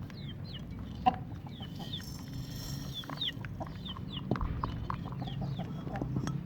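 Birds calling with many short, high, falling chirps, over a steady low hum, with a few sharp knocks; the loudest knock comes about a second in.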